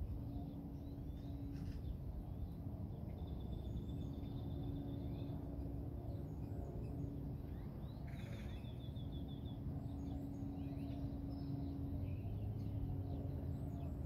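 Birds calling: scattered short chirps and two brief rapid trills, over a steady low rumble and hum.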